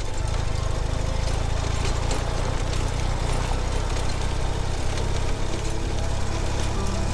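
Ural sidecar motorcycle's flat-twin engine running steadily under way.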